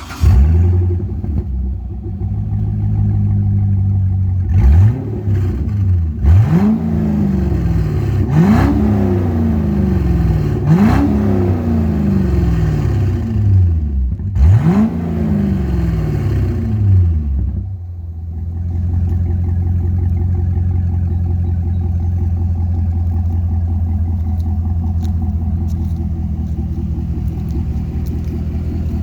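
2005 Corvette C6's 6.0-litre LS2 V8 on a cold start: it fires at the very start and settles into a steady idle, then is revved five times, each rev climbing quickly and falling back slowly, before idling steadily again for the last ten seconds or so.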